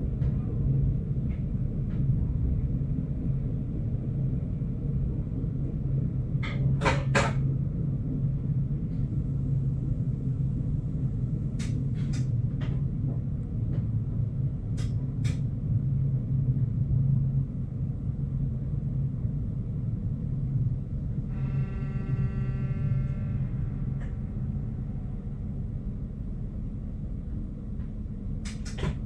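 Stadler GTW diesel multiple unit running slowly, heard from its driver's cab as a steady low engine and running rumble. Sharp clicks come in quick pairs a few times, and about three quarters of the way through a pitched tone with overtones sounds for two or three seconds.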